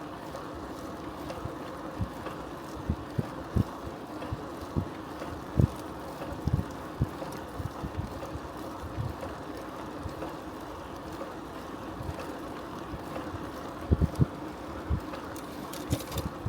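Steady hum of a bicycle rolling along, with irregular low thuds of wind buffeting the microphone.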